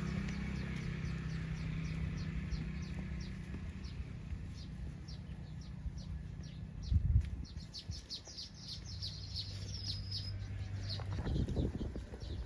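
A bird repeating a short, high, falling chirp, about two or three a second, over a low hum. A single dull thump comes about seven seconds in. Near the end, low knocking steps of cattle hooves on the road begin.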